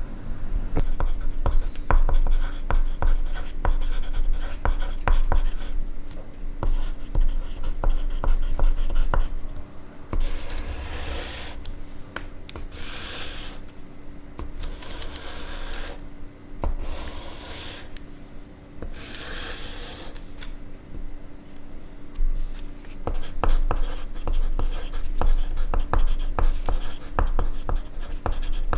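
Pencil writing on paper close up: a dense run of fine scratches and ticks. In the middle the writing gives way to about five separate one-second rubbing strokes of an eraser, then the writing resumes.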